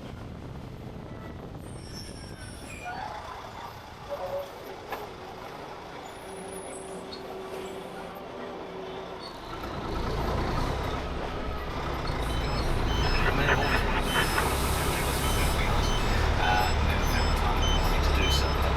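Heavy truck's diesel engine running, its rumble rising about ten seconds in. A reversing alarm beeps repeatedly over the last several seconds, with a short hiss of air partway through.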